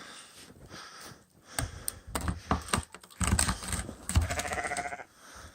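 Clicks and knocks from the lid and fittings of a 600-gallon water tank being opened to check for ice, then a pitched, pulsing creak about four seconds in.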